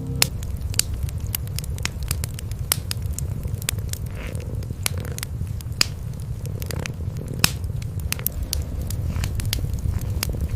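Wood fire crackling, with frequent sharp pops scattered through, over a steady low purring of cats.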